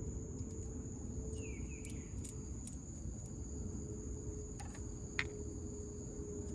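Crickets chirping in one steady high tone over a low background rumble, with a short falling chirp about a second and a half in and a few faint clicks near the middle.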